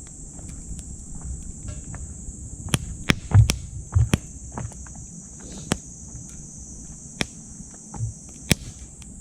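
Wood fire crackling in a titanium wood stove, with scattered sharp pops and a few dull low thuds a few seconds in and near the end. A steady high-pitched insect chorus runs underneath.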